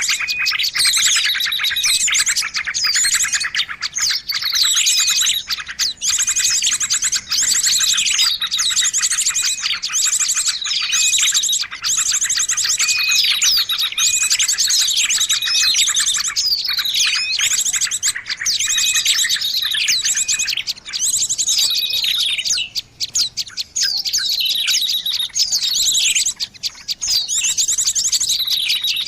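Dense chorus of many small birds chirping, trilling and calling at once in a continuous, busy mix of high notes and quick falling sweeps: a noisy bird-lure (pikat) recording used to attract wild birds.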